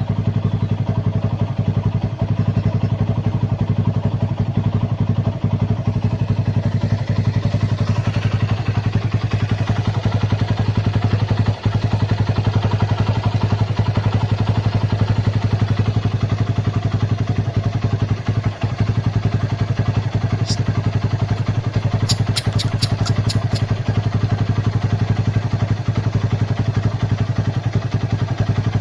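A motor running steadily with a low, even hum and rapid pulsing, and no change in speed. About 20 seconds in there is one high squeak, then a quick run of about six more over a second and a half.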